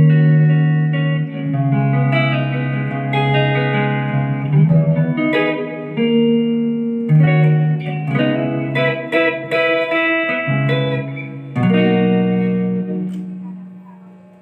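Ibanez GIO electric guitar with HSH pickups, played through an amplifier: a run of strummed chords, the last one left to ring and fade out near the end.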